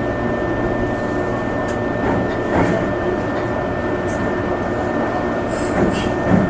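Meitetsu limited-express electric train running on the Nagoya Main Line, heard inside the car: a steady rumble with a constant high tone, and a few short knocks from the running gear, the loudest near the end.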